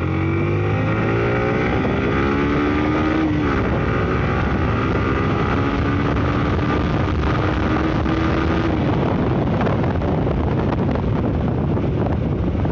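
Yamaha sport motorcycle's engine accelerating hard, its pitch rising through a gear, dropping at a shift about three seconds in, then climbing again. In the last few seconds wind rushing over the microphone covers the engine.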